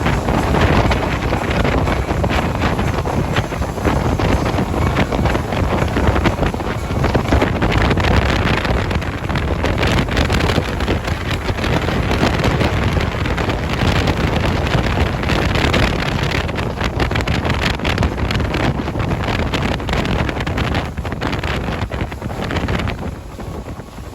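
Motorboat running at high speed, with heavy wind buffeting the microphone and water rushing past. The noise eases off near the end.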